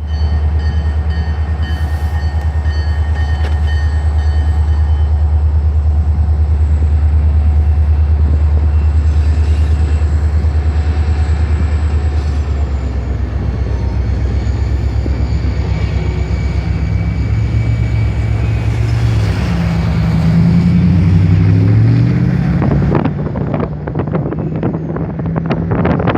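Diesel freight locomotive running steadily with a deep low rumble as it passes, its engine note shifting about three-quarters of the way through. Near the end, rapid clicking of wheels over rail joints takes over as the cars roll by.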